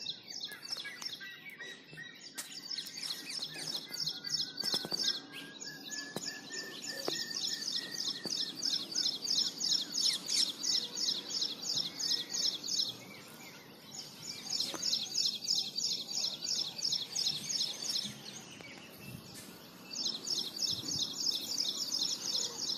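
Bird song: a fast trill of high chirps, many notes a second, with two short pauses, over a faint outdoor background.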